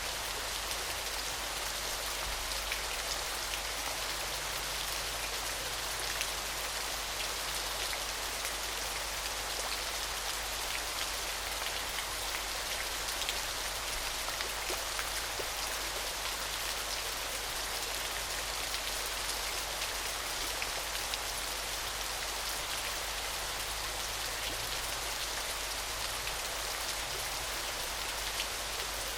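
Small gentle waterfall splashing steadily: an even, high, shimmering hiss of falling water, dotted with many fine drip-like splashes.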